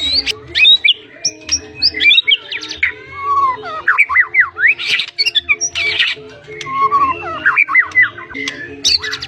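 White-rumped shama singing a fast, unbroken song of rapid up-and-down whistled sweeps mixed with sharp clicks and harsh chattering notes, full of mimicked phrases (isian).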